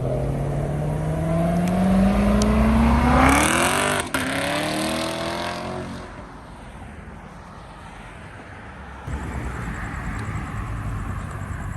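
A car engine accelerating hard as the car pulls away, revs climbing steadily, shifting up about four seconds in, climbing again, then fading as it goes off into the distance.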